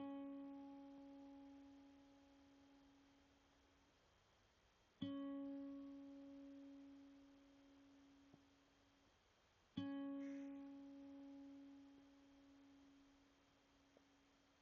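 Soft background music: a single plucked string note, the same pitch each time, struck three times about five seconds apart, each left to ring and fade away.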